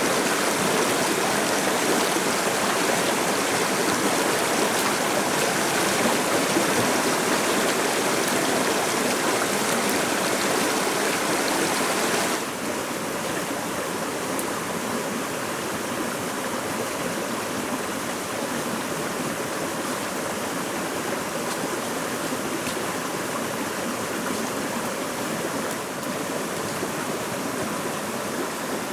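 Running water of a stream, a steady rushing. About twelve seconds in it drops suddenly to a quieter, duller rush.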